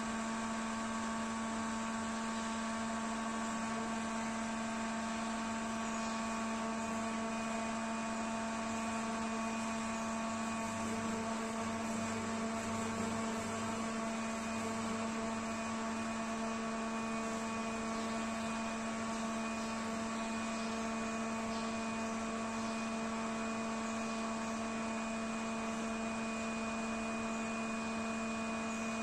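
Steady electrical and mechanical hum of laboratory earthquake-simulation (shaking) equipment running a scaled ground motion. It holds several constant tones, with a low rumble that swells for a few seconds around the middle.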